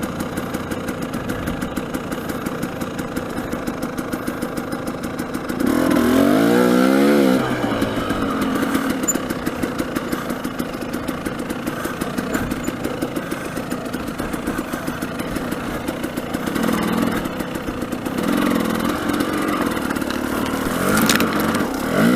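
Dirt bike engine idling with a steady rapid putter, revved once about six seconds in, the pitch climbing and falling back, and revved again near the end.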